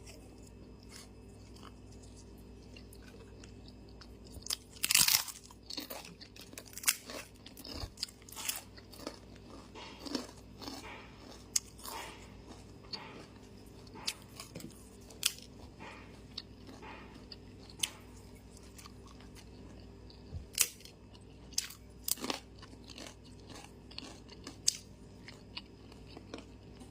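A person chewing and crunching food close to the microphone: irregular crisp crunches and mouth clicks that begin about four to five seconds in, the loudest about a second later, over a faint steady hum. The food is tempe orek eaten mukbang-style.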